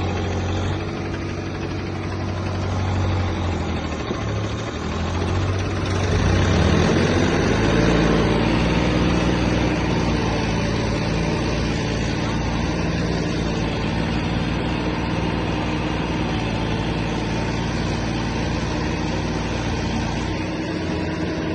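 Diesel tractor engine running at low revs, then revving up about six seconds in and holding at the higher speed, working to free a tractor stuck in mud.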